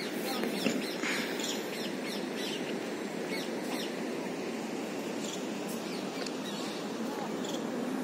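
Small birds chirping: many short, high, downward-sliding calls, most often in the first half, over a steady hiss of outdoor background noise.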